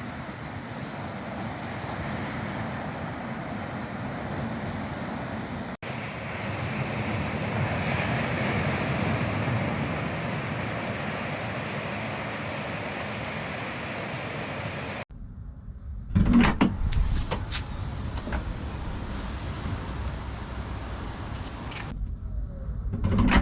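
Steady rush of ocean surf and wind on the microphone. About fifteen seconds in, after a hard cut, a vehicle's low rumble takes over, with a few sharp knocks.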